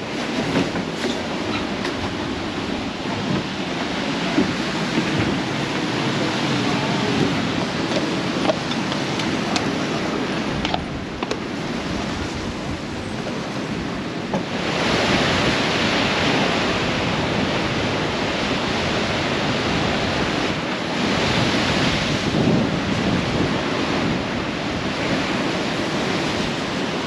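Strong storm wind buffeting the microphone over the rush of rough sea, with the gusts growing louder about halfway through.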